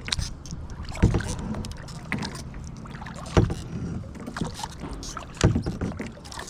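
Kayak paddling: paddle strokes splashing and knocking, several sharp hits one to two seconds apart over a low steady rumble.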